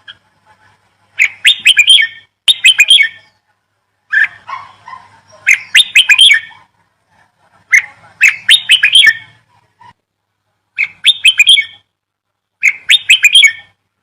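A small bird chirping loudly in short bursts of four or five quick notes, with brief silences between bursts, about six bursts in all.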